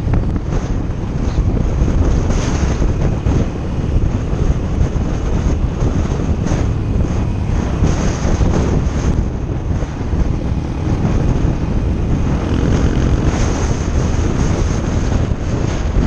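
Motorcycle engine running steadily under way, heavily buffeted by wind on the microphone.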